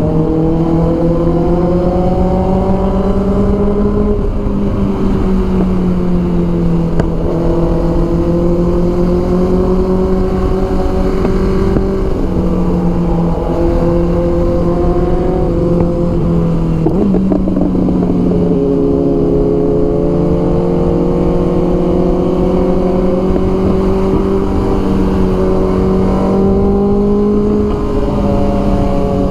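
Honda CBR650R inline-four engine running steadily at mid revs under way, its pitch drifting slightly up and down, then stepping up sharply once a little past halfway, as with a downshift. A dense low wind rumble sits under it.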